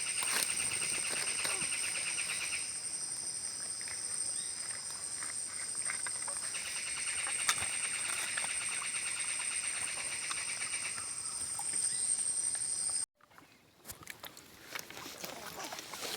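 Rainforest insect chorus: several steady high-pitched drones, with a faster pulsing trill coming in twice, first briefly and then again for about four seconds. About 13 seconds in the chorus cuts off suddenly, leaving quieter scattered clicks and knocks.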